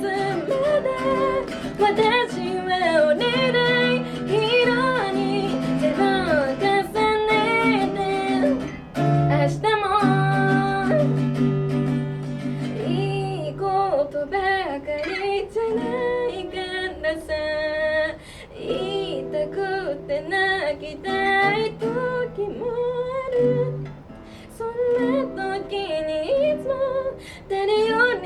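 A woman singing a pop song to her own acoustic guitar, strumming chords under the melody.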